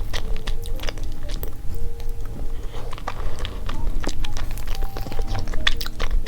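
Close-miked mouth sounds of a person chewing and biting chocolate crepe cake, with wet smacks and small clicks, over light background music.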